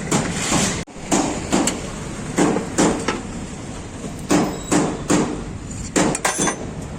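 Repeated hammer blows on metal, struck in uneven runs of two or three knocks with short gaps between.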